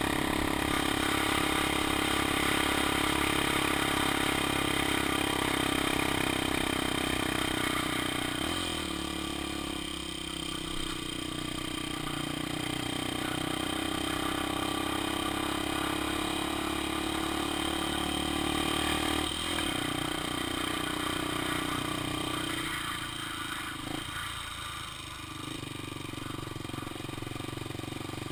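Honda XR 250 Tornado's single-cylinder four-stroke engine running while being ridden, heard from on board. Its note shifts a few times, dropping about eight seconds in and again near the end.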